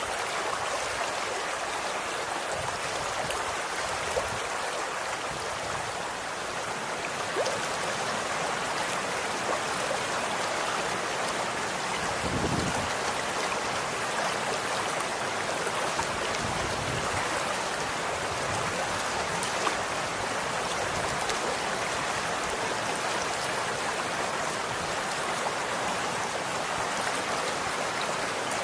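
Running water flowing steadily: a continuous rush and babble, with a few faint splashes along the way.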